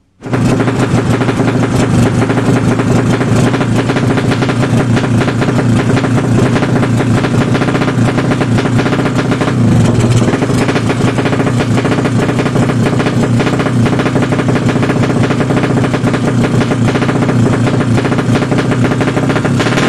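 Drag-racing motorcycle engine running loud and steady, cutting in abruptly, with a brief dip in pitch about halfway through.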